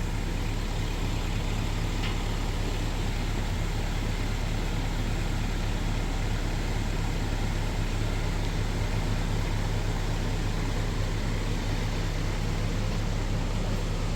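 A motor vehicle's engine running steadily, with a constant low hum and an even rush of noise over it.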